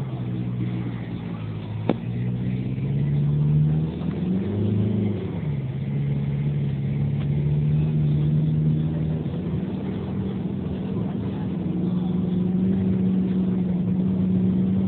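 VW Passat 1.9 TDI four-cylinder turbodiesel pulling away from a stop, heard from inside the cabin. The revs climb for the first few seconds, drop and rise again around four to five seconds in as at gear changes, then run fairly steadily, with a single click about two seconds in.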